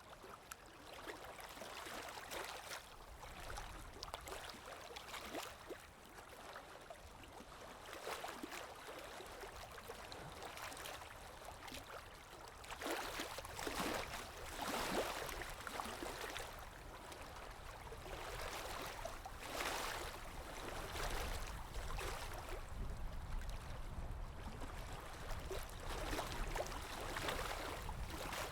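Water lapping in irregular small swells, with a low wind rumble underneath.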